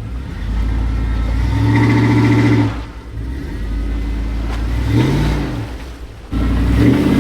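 Off-road vehicle engine revving in surges while towing, its pitch rising and falling several times. The engine gets suddenly louder about six seconds in.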